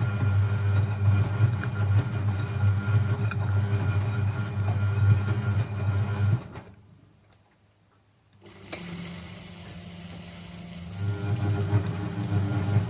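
Eudora Supernova EU 1001 washing machine's motor turning the drum with a steady hum. About six seconds in it winds down to a near-silent pause. After a click it starts again quietly and builds back to the full hum near the end, as the drum stops and restarts during the rinse.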